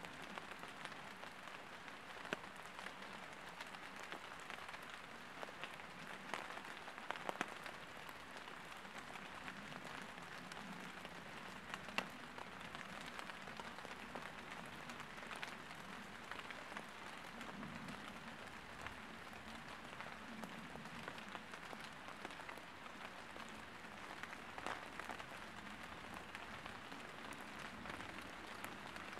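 Steady rain pattering on leaves and the forest floor, with a few scattered sharp clicks and snaps from tinder and small sticks being handled.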